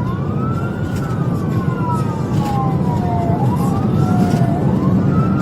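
Police car siren wailing, each cycle rising quickly and falling slowly about every two and a half seconds, over heavy road and wind noise from a patrol car driving at over 100 mph.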